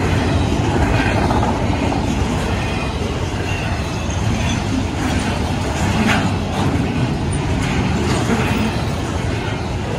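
Double-stack intermodal freight train rolling past a grade crossing: a steady rumble and clatter of the well cars on the rails, with the crossing's WRRS mechanical M-Bell ringing over it.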